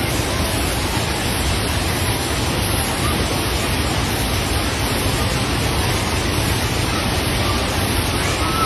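Fast-flowing floodwater rushing in a steady, even roar.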